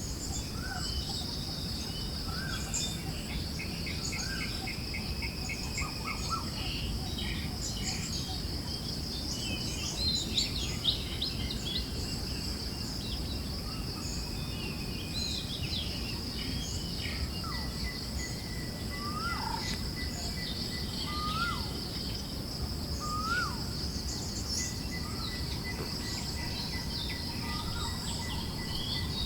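Forest birds chirping and calling on and off, over a steady high insect trill and a constant low rumble of wind. A cluster of quick chirps comes about ten seconds in, and a run of separate rising whistled calls comes near the two-thirds mark.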